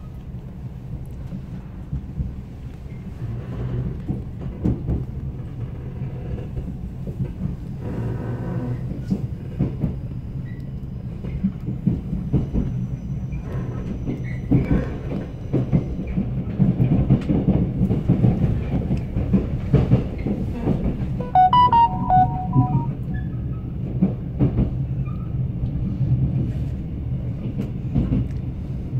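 Mugunghwa passenger train running at speed, heard from inside the carriage: a steady low rumble with an irregular clatter of wheels over the rails. A brief ringing tone comes about three-quarters of the way through.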